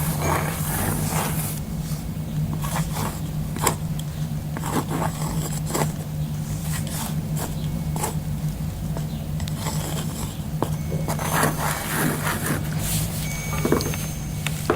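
A pen writing on cork: short scratching, scraping strokes with scattered sharp ticks, over a steady low hum.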